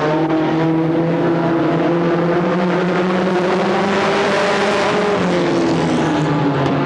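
Stock car engines running at race speed around the track. Cars pass closer about four seconds in, and the engine and tyre noise grows brighter.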